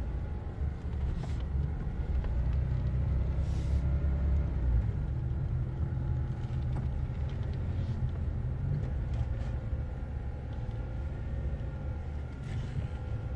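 Car driving slowly, heard from inside: a steady low engine and road rumble, with a few faint ticks.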